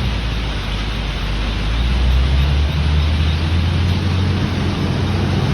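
Heavy diesel engine running steadily, a deep low drone with a hiss over it.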